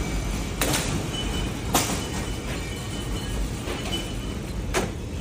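Low rumbling of a room shaking in an earthquake, with three sharp knocks.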